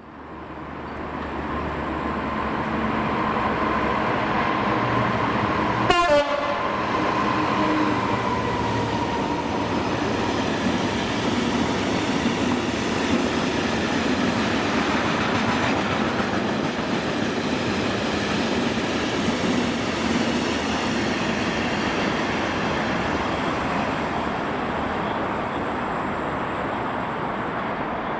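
A train passing through the station at speed: a loud rush of wheels on rails builds up, with a steady whine that drops in pitch as the front of the train goes by about six seconds in, then the carriages keep rumbling past.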